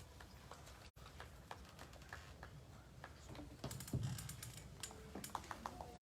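Scattered faint clicks and a few light knocks from the air pistol firing line, irregular and unevenly spaced, a little busier in the second half.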